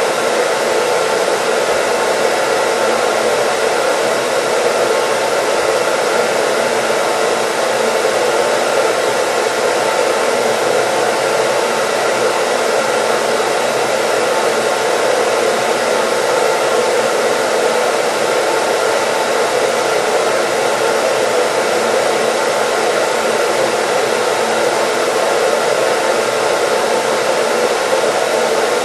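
Electric hair dryer running continuously at a steady speed, giving an even rush of airflow and motor noise with a faint steady whine, used as white noise.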